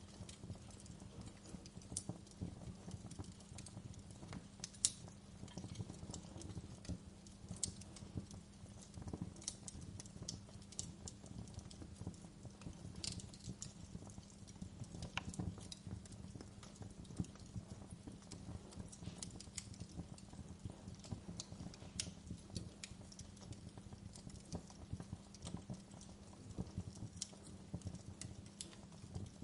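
Wood fire crackling: a low steady rumble of burning, with irregular small pops and snaps. The sharpest snap comes about five seconds in.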